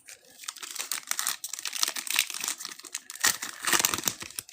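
Foil trading-card pack wrapper crinkling as it is handled and torn open.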